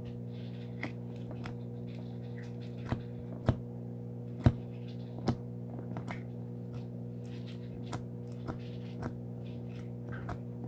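Slime being squeezed and poked, giving irregular sticky clicks and pops, with a few sharper snaps about three to five seconds in, over a steady low hum.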